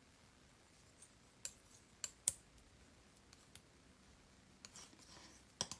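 Faint light clicks and taps, with a little scraping near the end, from oil paint being mixed on a palette.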